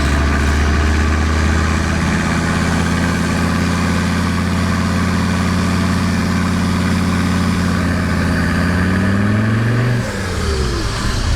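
Mercedes-Benz 300D's five-cylinder turbo diesel pulling hard under acceleration, its note climbing steadily, then dropping away about ten seconds in. The owner believes the engine now pulls harder after boosted launches cleared gummed-up crud.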